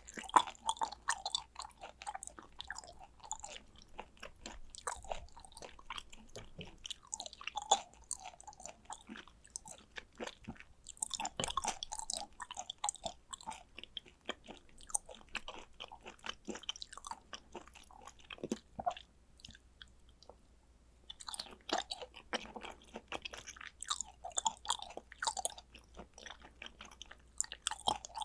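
Close-miked chewing and wet mouth sounds of someone eating raw tuna sashimi, in a continuous run of small clicks and smacks, with a short lull about two-thirds of the way through.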